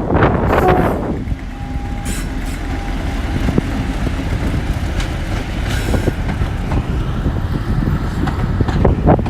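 Class 50 diesel locomotive running, a steady low rumble with wind noise on the microphone.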